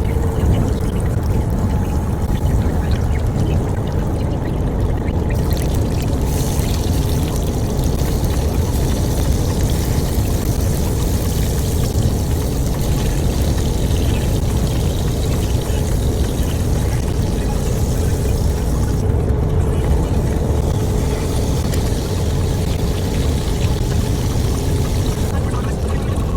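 Pork chops sizzling in a frying pan over the steady low rumble of the semi truck's cab.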